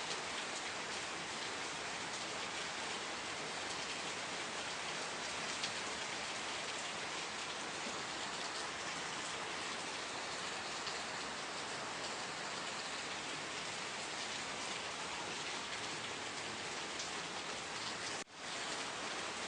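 Steady rain falling, an even hiss of many drops. It drops out for a split second near the end.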